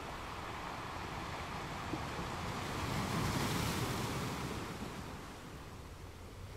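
Road and tyre noise of a car driving at about 30 mph, heard through a dashcam in the cabin. A broad whoosh swells up about three seconds in and fades away again within a couple of seconds.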